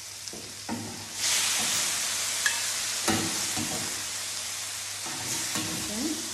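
Squid and cuttlefish pieces sizzling in hot oil in a wide paella pan, while a metal slotted spoon scrapes them up off the pan bottom in a few separate strokes. The sizzle swells about a second in.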